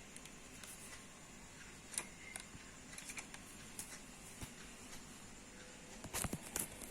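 Faint scattered clicks and handling noises, with a quick run of louder knocks about six seconds in.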